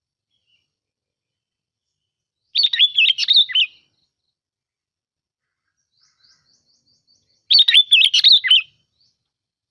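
Bông lau bulbul singing: two short bursts of quick, warbled, bubbling phrases, each a little over a second long, about five seconds apart, with faint high chips just before the second, played as a lure recording for trapping the bird.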